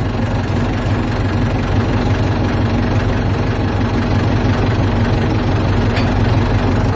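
Ford 755 backhoe's engine idling steadily, a continuous low running sound.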